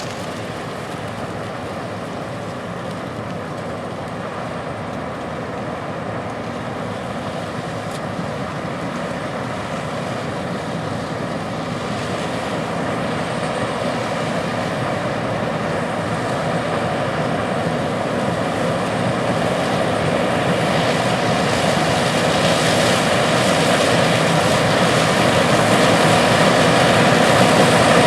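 Case IH 8250 Axial-Flow combine harvesting corn with its 12-row corn head. The engine and machinery run steadily and grow slowly louder as the combine approaches.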